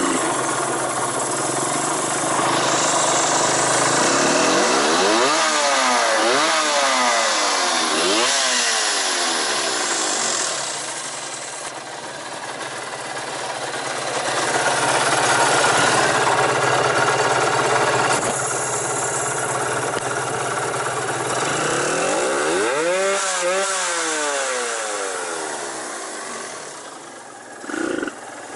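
Suzuki RG125 Gamma's two-stroke single-cylinder engine, breathing through a Sugaya expansion chamber, running and being revved in short throttle blips: the pitch rises and falls about five and eight seconds in, and again twice around twenty-three seconds, with a last quick blip near the end.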